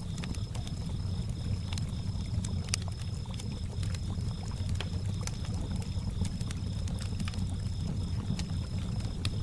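Campfire crackling with sharp scattered pops, over water lapping at a lakeshore and crickets chirping in a steady, high, pulsing trill.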